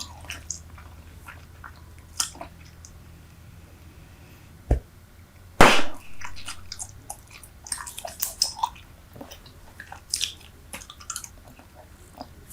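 Close-miked chewing of Super Bubble bubble gum: scattered wet clicks and smacks of the gum. About five and a half seconds in comes one much louder sharp pop, just after a low thump.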